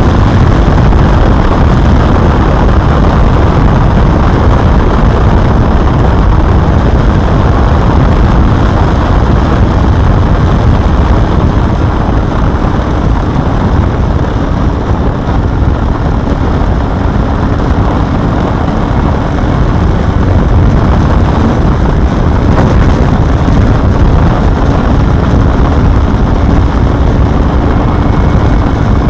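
Honda Hornet 250's inline-four engine running loud and steady under load, heavy in the low end with a faint steady tone underneath. Its exhaust ports have been chamfered, which the owner says lets it rev up smoothly at high rpm.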